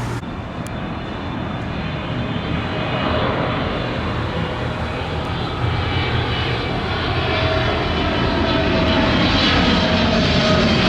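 Airplane flying overhead: a steady engine rumble with a faint whine, slowly growing louder.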